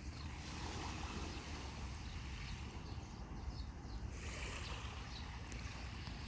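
Sea waves washing on the beach, with wind rumbling on the microphone.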